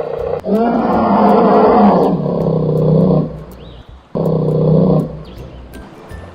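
Bear roaring: a long roar of about three seconds, then a second, shorter roar about four seconds in.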